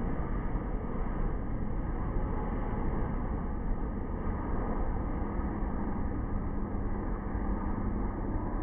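Steady low rumble of a jet airliner's engines, with a faint steady hum joining about halfway through.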